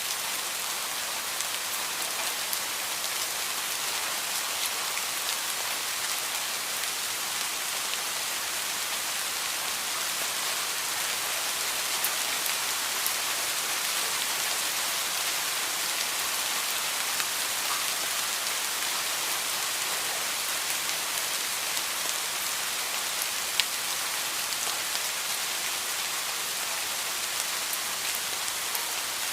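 Heavy rain falling steadily, a dense even hiss with scattered sharper drop ticks and one louder tick near the end.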